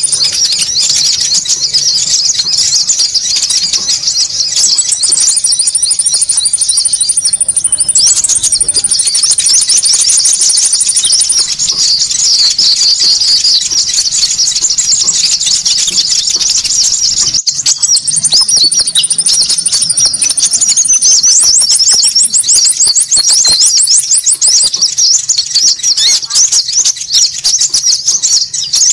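Konin bird-lure call: a dense, unbroken chatter of rapid high-pitched chirps from several small birds calling over each other. A thin, high, steady trill sits above the chatter, coming in and dropping out a few times.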